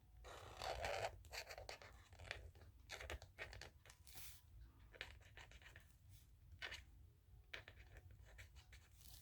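Faint scratching of a small pump marker's tip rubbed across the painting surface in short, irregular strokes. The marker seems to be running low on ink.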